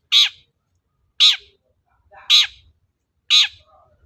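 Long-tailed shrike (cendet) giving four harsh, scratchy calls, about one a second, each falling sharply in pitch.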